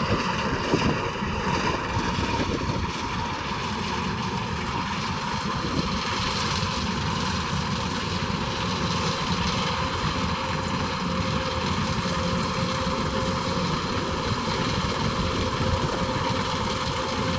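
Kubota DC108X combine harvester running steadily under load as it harvests rice, with an even engine drone and a constant mechanical hum.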